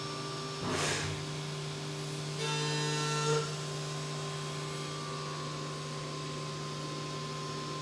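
Steady low electrical hum in the background of a quiet recording, with a short burst of noise about a second in and a brief rise in level around three seconds.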